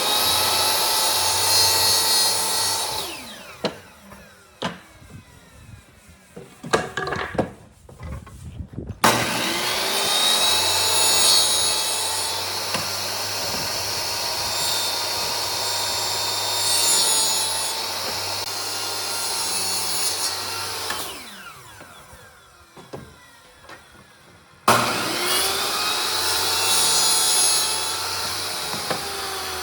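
Electric power tool working wood, started three times, each run beginning suddenly. The first two runs end with the motor winding down. Between the first and second runs come a few separate knocks.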